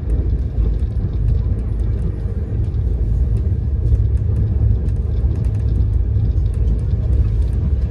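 Steady low rumble of a moving passenger train, heard from inside the coach, with faint light clicks scattered throughout.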